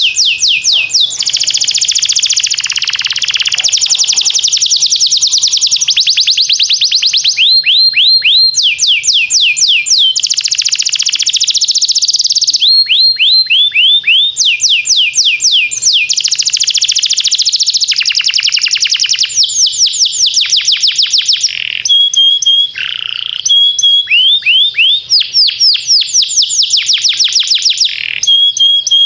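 Canary singing a long, loud song of rapid trills: runs of quick, evenly repeated falling notes, switching to a new phrase every second or few seconds with brief breaks.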